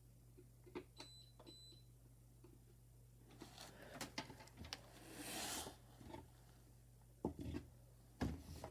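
Handling noises from hands working on hardware: scattered small clicks and taps, two faint short high beeps just after a second in, a brief rustle or scrape about five seconds in, and two louder knocks near the end, over a steady low hum.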